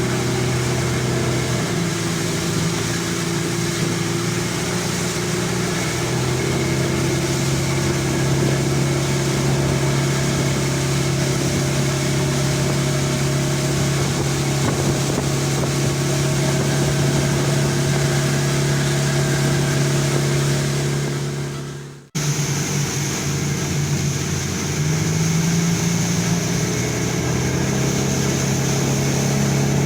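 Speedboat engine running steadily under way, with a constant hiss of rushing water and wind. About 22 seconds in the sound fades and breaks off, then the engine is heard again, its pitch rising slightly a few seconds later.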